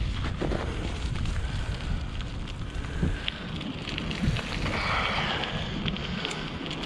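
Wind buffeting the microphone with a heavy rumble, overlaid by light crackling and ticking, as when riding a bicycle outdoors.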